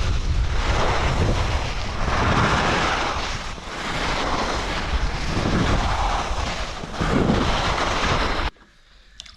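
Heavy wind rushing over the microphone during a fast downhill ski run, swelling and easing, then cutting off abruptly near the end.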